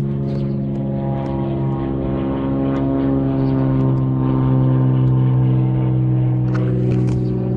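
Small single-engine propeller plane flying low overhead, a steady engine drone that grows a little louder to about five seconds in and then eases slightly.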